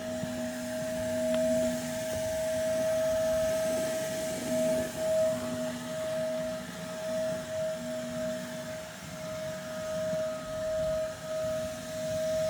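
A small electric motor running steadily with a high, even hum, plus a fainter lower hum that drops in and out.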